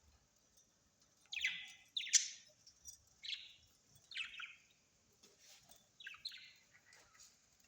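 A bird calling in a series of short chirps, about seven in all with pauses between, some coming in quick pairs.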